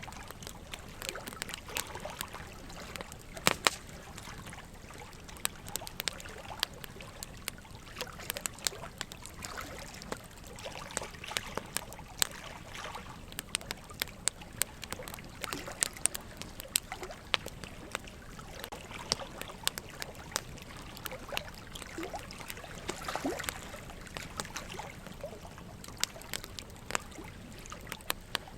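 Wood logs burning in a fireplace, crackling with sharp, irregular pops several times a second, over a steady trickle of running water.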